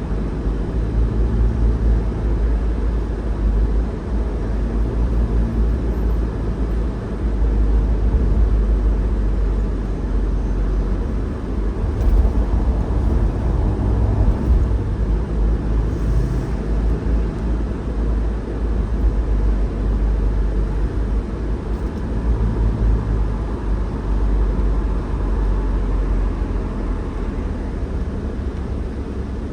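A car driving: a steady low rumble of road and engine noise that swells and eases slightly as it goes.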